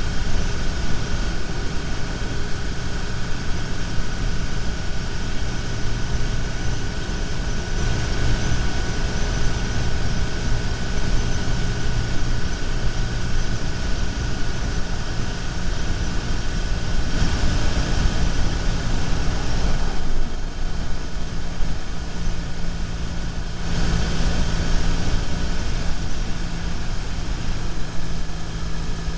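BMW R1150GS boxer-twin engine running steadily at cruising speed, heard with a steady rush of wind and road noise from a bike-mounted camera.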